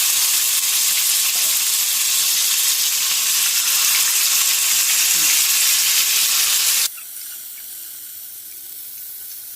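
Chicken pieces frying in hot rice bran oil, a loud steady sizzle. About seven seconds in it drops suddenly to a quieter sizzle.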